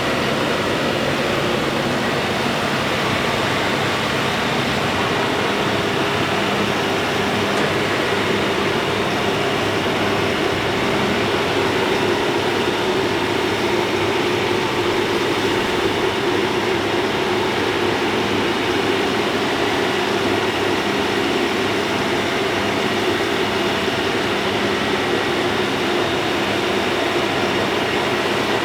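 Large TYM diesel tractor engine running steadily as the tractor drives, heard from inside its closed cab.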